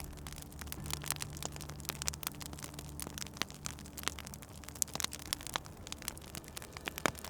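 Wood fire crackling with frequent irregular snaps and pops, over soft low sustained music tones that drop out just before the end.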